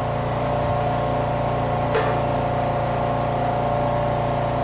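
A steady mechanical hum with several steady tones running through it, and a single short click about two seconds in.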